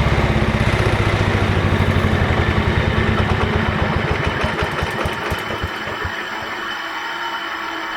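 Cub Cadet 1000 garden tractor engine being shut off. Its firing pulses slow and spread out as it coasts down, stopping about five and a half seconds in.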